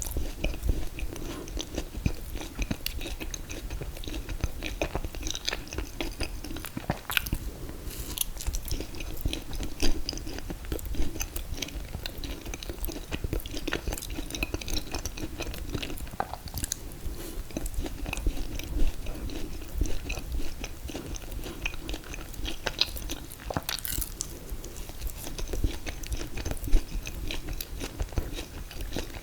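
Close-miked chewing and mouth sounds of someone eating ice cream cake, with a steady run of small wet clicks and a few sharper ones.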